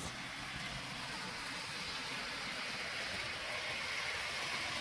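HO-scale model locomotive running along the layout track: a steady whir of its small motor and wheels on the rails, growing slightly louder.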